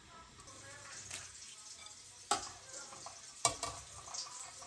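Food frying faintly in a pan, with a light sizzle and two sharp clinks of a utensil or dish about two and three and a half seconds in.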